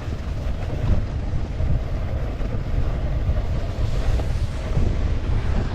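Wind rumbling over a GoPro's microphone while snowboarding at speed, with a steady rushing hiss above the low buffeting.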